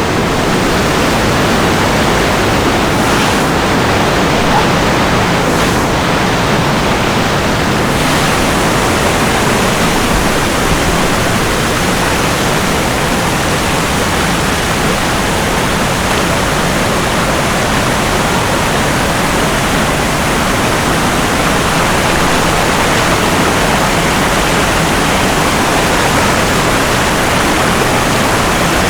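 Waterfall water rushing steadily and loudly, close by.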